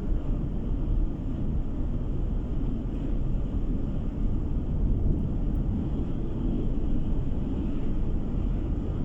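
Car driving at road speed, heard from inside the cabin: a steady low rumble of tyre and engine noise.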